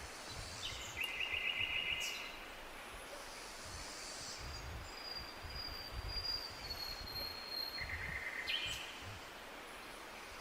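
Forest songbirds singing over a steady hiss of background noise. A rapid trill starts about half a second in and lasts over a second. A long, thin, high whistled note runs through the middle, and another short trill comes near the end.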